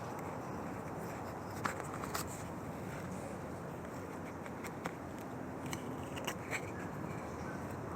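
Small clicks and light rustles of hands tying net knots in cord, scattered over a steady low outdoor background hiss.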